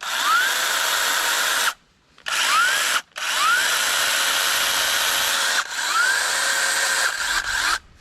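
Battery-powered 20-volt mini chainsaw running free, trigger pulled and released in about four bursts, the motor's whine rising at each start. It is being run without load to throw out wood chips and spread the chain oil.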